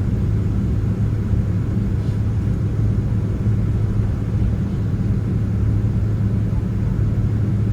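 Steady low cabin rumble of a Boeing 767-300ER taxiing to its gate, its engines at idle, with a constant low hum.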